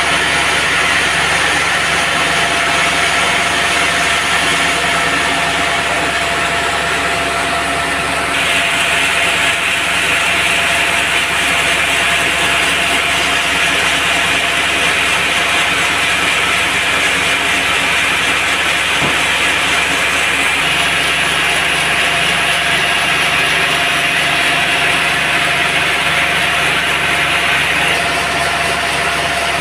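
Engine-driven band sawmill running steadily as its blade cuts through a teak log. The hiss of the cut grows louder about eight seconds in and eases off near the end.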